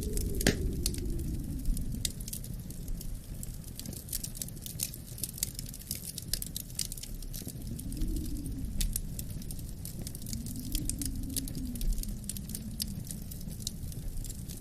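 Wood fire crackling with frequent irregular snaps and pops, over a low wind whose howl rises and falls in slow gusts.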